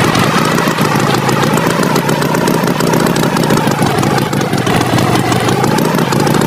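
A tractor engine sound effect, running steadily with no change in pace.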